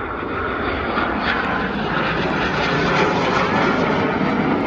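Jet engines of Red Arrows BAE Hawk jets flying past, a rushing roar that grows steadily louder as the aircraft approach.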